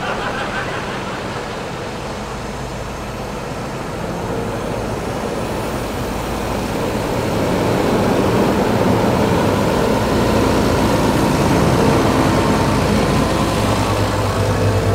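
Heavy farm tractor engine running under way, growing louder about halfway through as the machine comes closer, with a strong low engine drone near the end.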